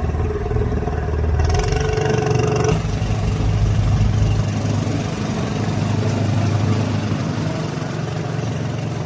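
A small engine running steadily with a low hum, without a change in speed.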